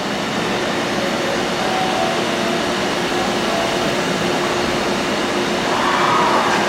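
Subway train running into an underground station platform: a steady rumble of wheels and running gear, swelling slightly near the end.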